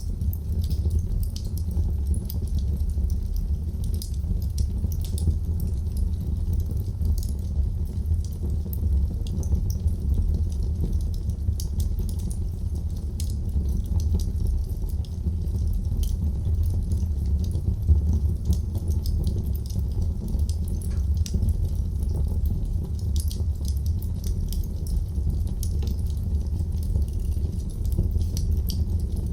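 Wood fire burning in a fireplace: a steady low rumble of flames with frequent small crackles and pops, and one louder pop about 18 seconds in.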